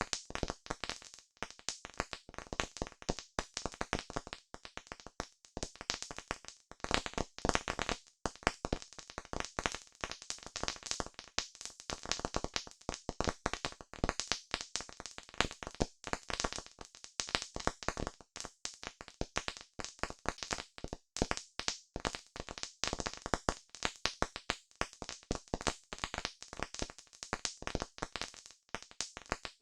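Campfire crackling: wood burning with a dense, irregular stream of snaps and pops.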